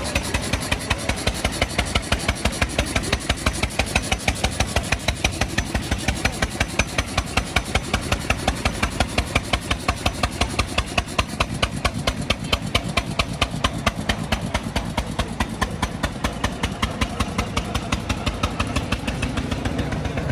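Classic car engine idling with a slow, even exhaust beat, roughly five pulses a second, holding steady.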